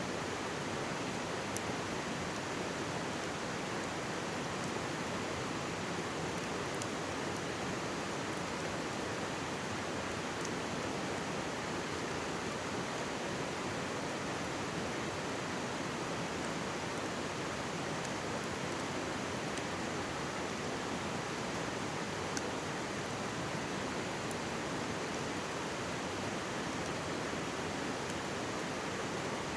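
Mountain stream babbling steadily, with a few sharp crackles from a wood campfire, the clearest about a second and a half in and again past twenty seconds.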